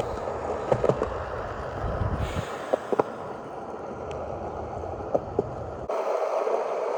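Skateboard wheels rolling on concrete with a rumble, and a few sharp clicks from the board. The rumble stops abruptly near the end.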